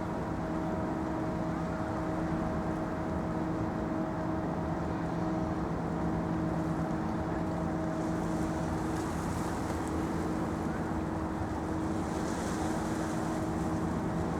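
A steady engine drone holding one constant low pitch, over a continuous haze of outdoor noise.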